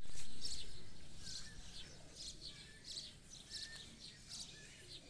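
Birds chirping outdoors, about two short high chirps a second, with a few brief whistled notes in between, over a faint steady outdoor hiss.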